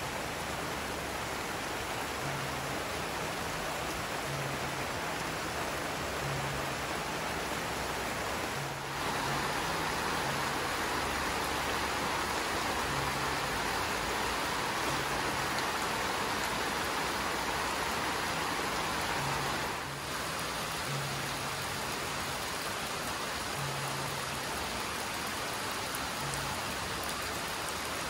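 Steady rain falling, heavier for a stretch in the middle.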